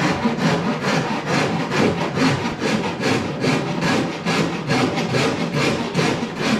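Horse rasp being worked over the wooden stem of a boat hull, a steady run of quick rasping strokes at about four a second.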